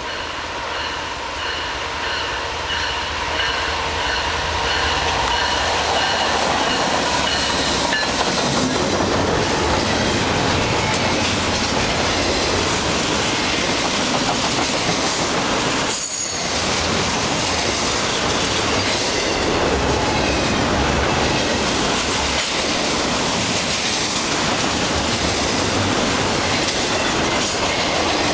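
Long CN intermodal freight train rolling past close by, growing louder over the first several seconds. It then settles into a steady rumble and clatter of wheels on the rails, with a brief high wheel squeal about midway.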